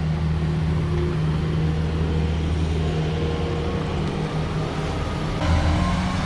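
Large Case tractor's diesel engine running steadily under load while pushing and packing silage, a low even drone that steps up a little louder about five seconds in.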